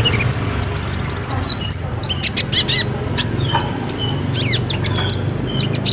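Kolibri ninja (sunbird) singing: a busy run of high, thin chirps, fast trills and quick down-slurred notes, over a low steady hum.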